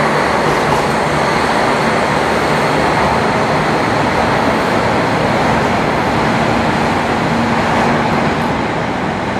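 Train running with a loud, steady rumble and a faint hum, easing off slightly near the end.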